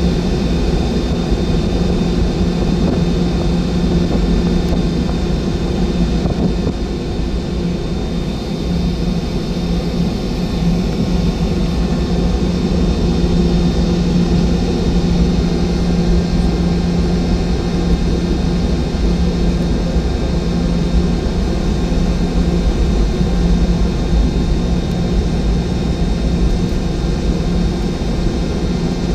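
Boeing 717-200's rear-mounted Rolls-Royce BR715 turbofan engines running steadily, heard from inside the cabin as a constant low hum with a steady high whine.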